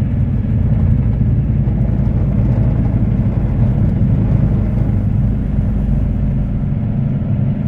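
Semi truck's diesel engine running steadily under way, heard from inside the cab as a low, even hum.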